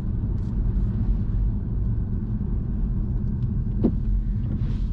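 Car driving, heard from inside the cabin: a steady low rumble of tyres and engine on the road, with one short click about four seconds in.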